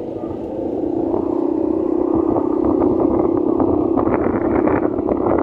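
Motorcycle engine running while riding, growing louder over the first couple of seconds, with rushing wind and road noise on the microphone.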